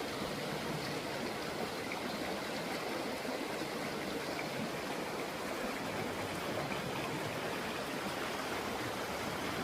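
Stream water rushing steadily, a constant even wash of noise.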